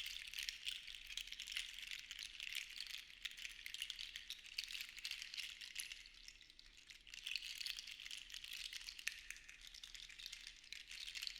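Seashells shaken together in a dense, fine rattle of many small clicks, swelling and ebbing in slow waves and easing off for a moment about halfway through.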